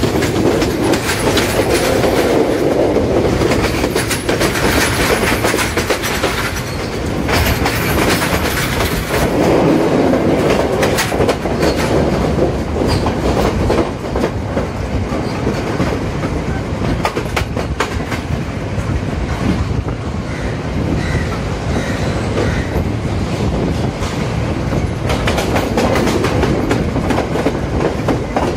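Passenger train carriage rolling along the track at speed, a steady rumble with the wheels clicking irregularly over rail joints.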